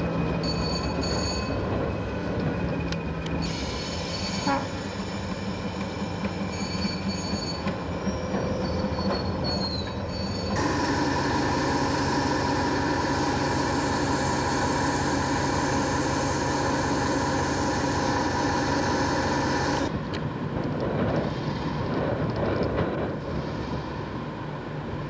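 Railway train running, with steady humming tones and a short high squeal about nine to ten seconds in. The sound changes abruptly several times, and is loudest and steadiest from about ten to twenty seconds in.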